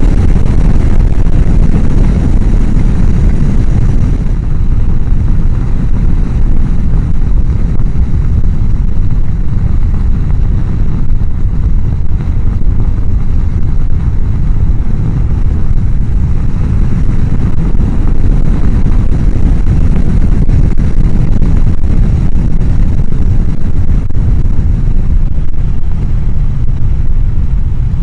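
Steady, loud, low rush of wind noise over a motorcycle helmet microphone while riding a Honda CBR1000F at speed. The noise is made worse because the mic sits right behind the helmet's chin-bar air vent.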